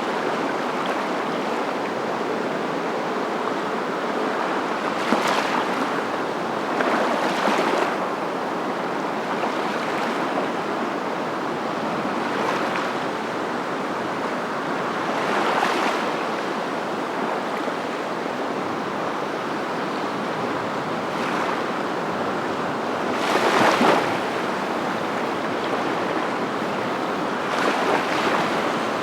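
A steady rush of moving water that swells briefly every few seconds.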